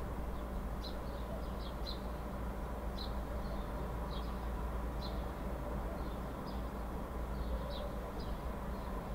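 Steady low background hum with faint, short, high chirps of small birds scattered through it, about two a second.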